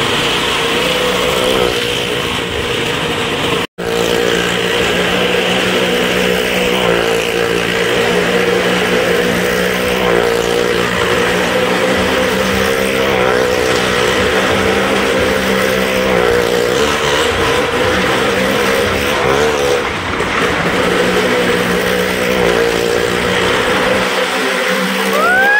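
Motorcycle engines running hard in a steady, wavering drone as they circle the wooden wall of a well-of-death drum, breaking off for an instant about four seconds in. Near the end the engine drone thins out.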